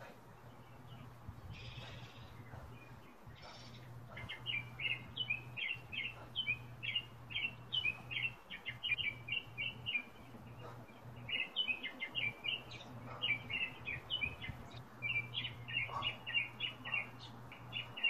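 Songbird chirping in quick, repeated short notes, nearly continuous from about four seconds in, over a steady low hum.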